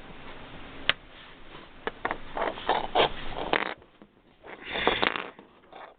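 Rustling and scraping handling noises with several sharp clicks and knocks, as of things being moved about while something is searched for.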